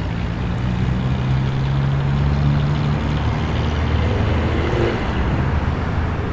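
A 1961-model Holden's engine running at a steady, deep note, holding its pitch without revving.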